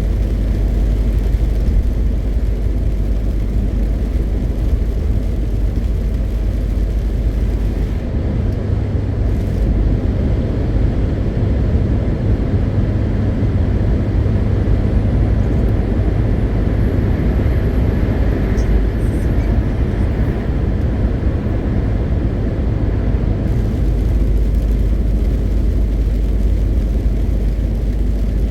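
MAN TGX 520 truck's six-cylinder diesel engine running steadily under way, with tyre and road noise: a continuous low rumble.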